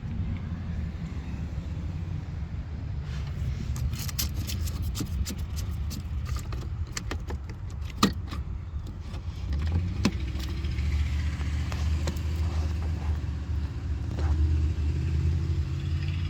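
A 2014 Audi Q5's 2.0-litre turbocharged four-cylinder engine running at a steady idle. A run of sharp clicks and rattles comes over it through the middle, with two louder clicks about eight and ten seconds in.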